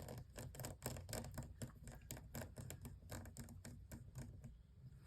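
Faint, irregular light clicks and taps, several a second, from small phone parts and tools being handled while a Samsung Galaxy S9 is put back together.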